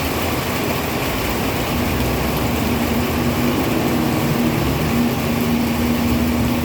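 Heavy rain falling steadily as a dense hiss. About two seconds in, a steady engine hum joins it.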